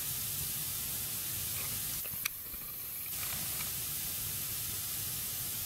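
Wood fire burning in a fireplace: a steady hiss with a few faint crackles and one sharp crack a little over two seconds in.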